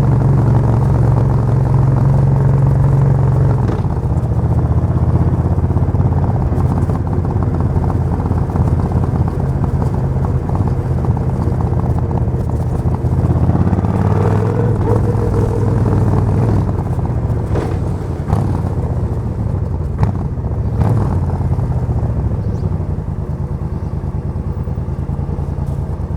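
Suzuki VS1400 Intruder's V-twin engine running with a steady, deep note. Its pitch drops a little about four seconds in and rises briefly around the middle.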